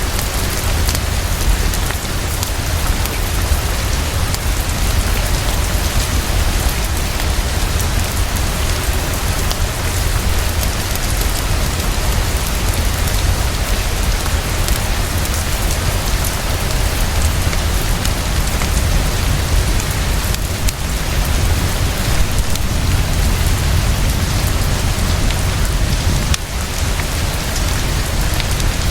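Heavy, steady rainfall with a constant low rumble underneath, mixed with scattered sharp crackles of a wood fire.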